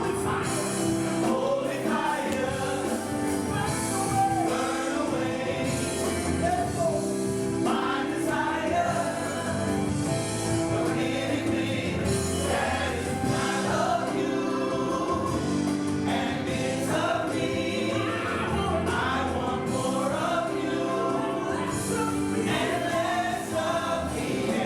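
Gospel music: a choir singing over sustained instrumental chords.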